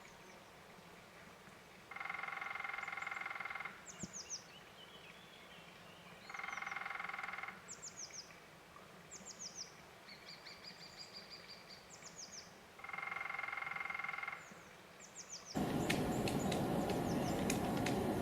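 Woodpecker drumming in three rolls of one to two seconds each, with quick, high, falling bird chirps and a short trill between them. Near the end a louder hiss with sharp taps sets in.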